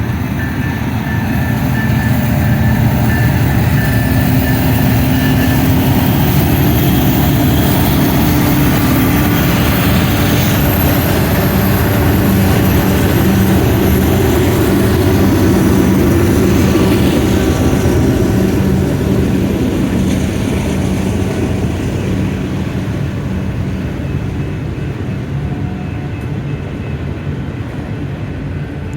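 Union Pacific freight train's diesel locomotives running past with a deep, steady engine drone. It builds over the first couple of seconds, holds loud, then slowly fades over the last ten seconds.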